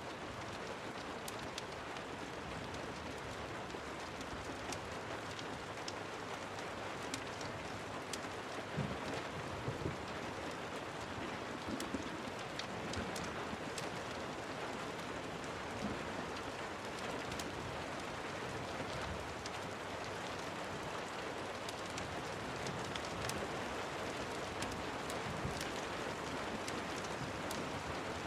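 Steady rain falling, with many small sharp crackling ticks scattered through it, typical of a wood fire crackling in a fireplace, and a few soft low knocks about nine to twelve seconds in.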